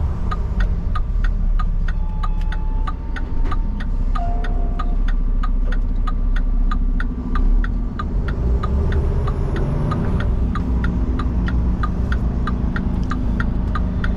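Turn signal clicking steadily in a semi-truck's cab, about three clicks a second, over the low rumble of the truck's engine.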